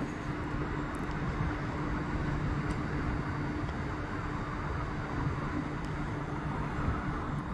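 A train running at a station platform: a steady rushing noise with a steady low hum that stops near the end.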